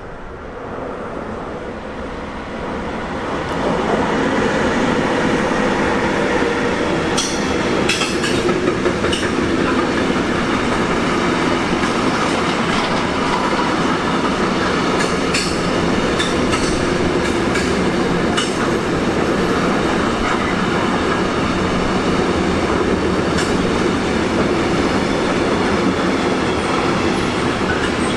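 A train approaches over the first few seconds and then passes close by. Its wheels clatter over the rails with scattered sharp clicks and brief squeals.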